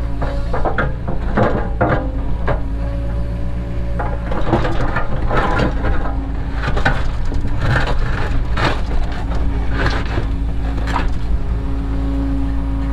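Cat 307 excavator's diesel engine running steadily while the machine works, with frequent irregular clanks, knocks and scraping, as of the bucket working stone and soil.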